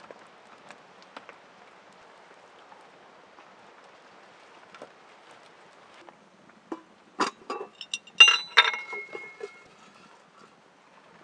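Hard objects being handled: a quick run of knocks and clinks, a few of them ringing briefly, over faint scattered ticking.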